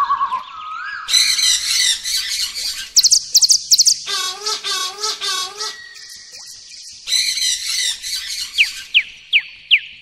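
Small birds chirping and trilling in quick bursts. Runs of fast, high notes slide downward about three seconds in and again near the end. The calls change abruptly every second or so.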